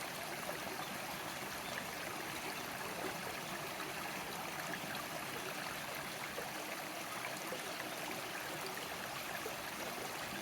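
River water flowing and burbling over stones, a steady rushing wash with fine splashing detail.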